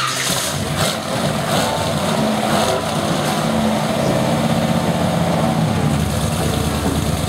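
Custom 1958 Chevrolet Impala's engine running steadily, its exhaust note pulsing evenly.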